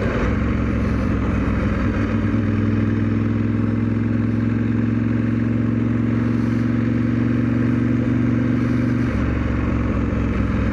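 1997 Ducati 916's L-twin engine running on the road, held at moderate revs for running in. Its steady note shifts up about two seconds in and drops back about nine seconds in.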